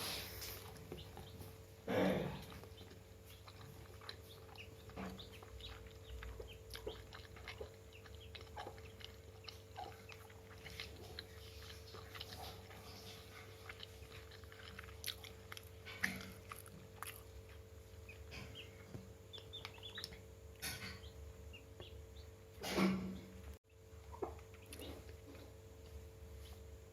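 Chickens moving about and pecking: many small ticks and taps throughout over a steady low hum, with two louder short sounds, one about two seconds in and one near the end.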